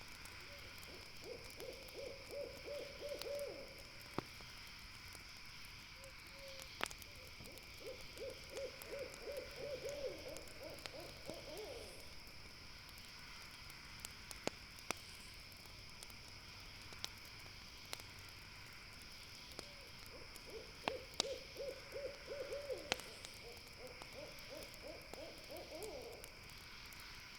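An owl calling in three bouts, each a quick run of repeated notes, over a steady high hiss, with the occasional sharp pop of a campfire crackling.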